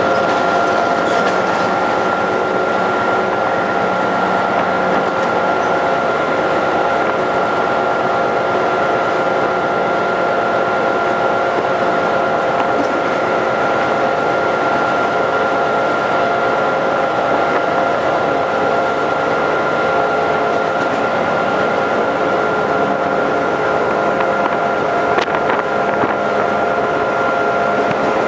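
Passenger train running at a steady speed, heard from a carriage window: a constant noise of the moving train with a steady whine held over it.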